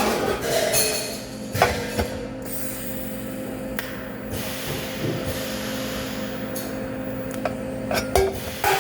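TIG welding arc burning steadily with a hum and hiss, which cuts off about eight seconds in; a few sharp metallic clicks sound during it and at the end.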